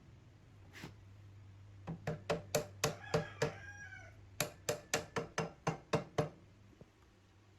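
Hammer striking metal in two quick runs of sharp, ringing blows, about four a second, with a faint bird call between them.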